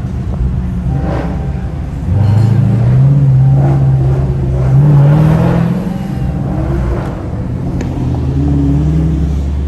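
V8 muscle car engine running. About two seconds in it rises under throttle, and its pitch climbs for a few seconds before easing back down and settling at a lower, steady note near the end.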